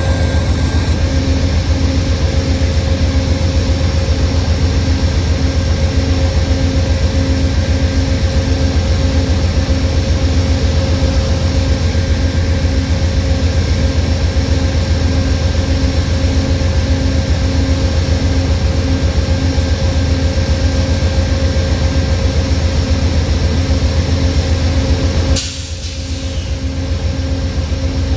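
Train going past close by: a loud, steady low rumble with a few steady tones over it. It is broken by a sudden click and a brief drop near the end.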